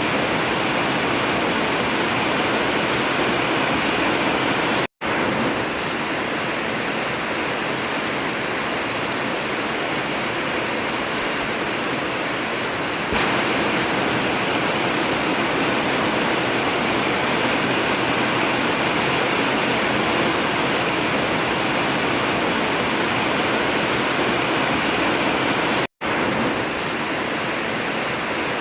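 Heavy rain falling steadily on an old tin roof, a dense even hiss, cut off for an instant twice, about five seconds in and near the end.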